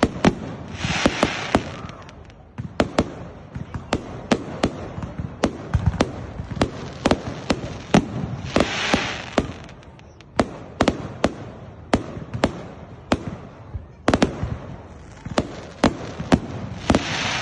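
Fireworks going off: a dense, irregular string of sharp bangs, several a second, with three spells of hissing crackle, about a second in, around the middle and near the end.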